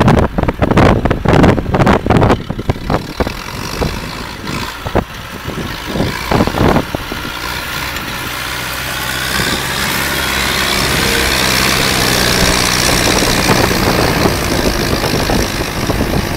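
Zetor 7745 tractor's diesel engine running. For roughly the first seven seconds the sound is broken up by loud, irregular knocks or gusts; after that the engine settles into a steady idle, with a hiss that slowly grows louder.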